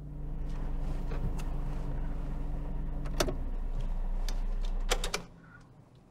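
Car engine running, heard from inside the cabin as a steady low hum, with a few sharp clicks. After a double click about five seconds in, the engine sound cuts off.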